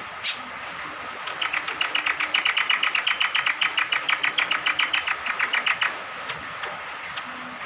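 Cucak kombok (kecial kombok) honeyeater calling: one harsh note, then a rapid chattering run of about eight notes a second lasting some four to five seconds. A steady hiss of falling rain runs underneath.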